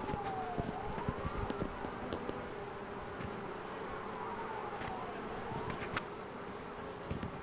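Honeybee swarm buzzing steadily, the many wings making a continuous hum. Twice a faint whine glides down in pitch and then back up over the buzz.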